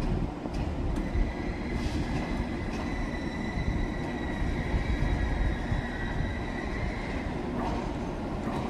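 A train moving through a station, with a steady low rumble. From about two seconds in to near the end, a high, steady squeal or whine sounds, and a few sharp clicks come in between.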